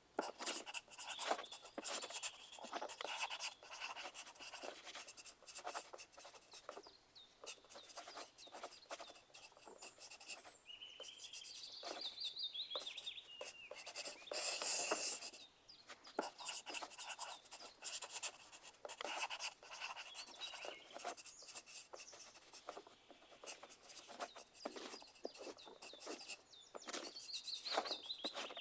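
Pencil writing on paper: quick, irregular scratching strokes, as in an exam room. A short high warbling chirp sounds twice, near the middle and near the end.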